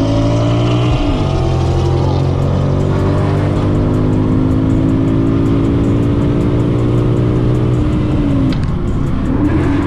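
Ford Mustang GT's 5.0 V8 through a loud aftermarket exhaust, accelerating on the road. The pitch climbs, drops at a gear change about a second in, rises steadily for several seconds, then falls again near the end.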